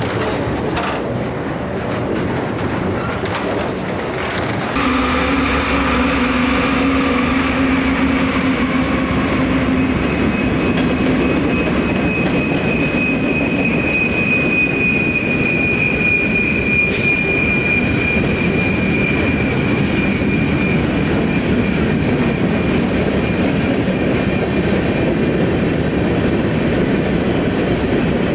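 Freight train passing close by: it arrives loudly about five seconds in, then a steady run of rail cars with wheel clatter and a long, high, steady wheel squeal through the middle.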